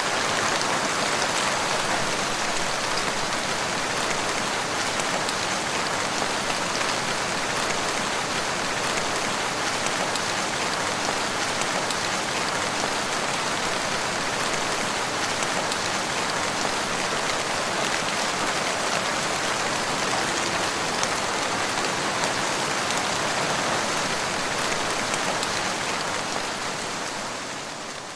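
Steady rain pattering on the ground, an even hiss of many drops. It fades in at the start and fades out near the end.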